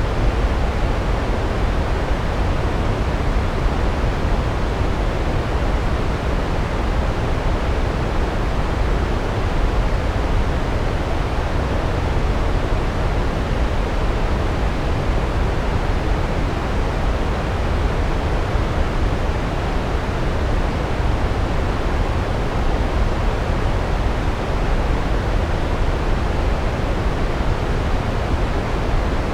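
Large waterfall, a steady loud rush of falling water, deepest at the low end, without change or break.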